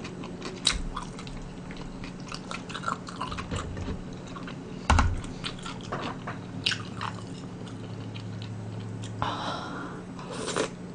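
Close-up chewing of a mouthful of spicy fishcake, with scattered short sharp clicks, the loudest about five seconds in.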